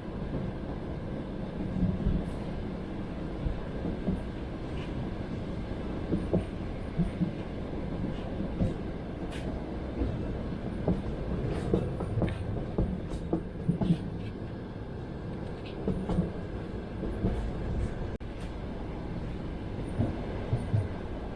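A passenger train running, heard from inside the carriage: a steady low rumble with uneven knocks and clicks of the wheels over the rails.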